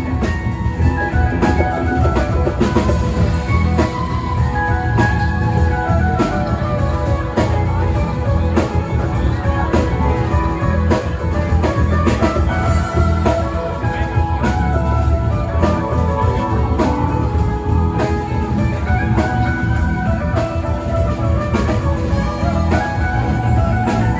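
Live band playing an instrumental passage: guitar lines over a steady drum kit beat.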